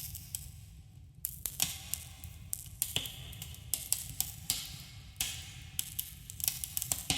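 Wood campfire crackling, with irregular sharp pops and snaps over a steady low rumble of the burning fire.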